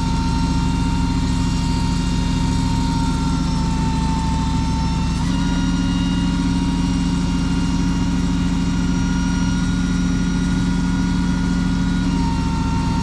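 Rollback tow truck's engine running steadily under a high, even whine while the bed hydraulics draw the loaded car up. The pitch steps up slightly about five seconds in.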